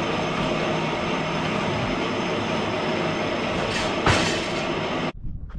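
Circular sawmill machinery running: a loud, steady whine and rumble from the saw and feed equipment, with a sharp bang about four seconds in. The noise cuts off suddenly near the end.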